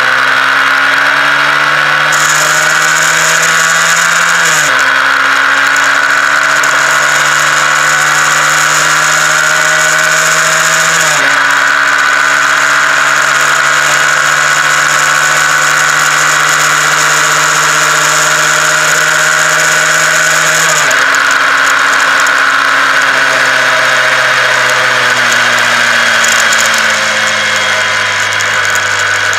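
Honda CBR125R's 125 cc single-cylinder four-stroke engine under way, its pitch climbing slowly in each gear and dropping sharply at three upshifts, about five, eleven and twenty-one seconds in. After the last shift the engine note sinks slowly as the bike slows.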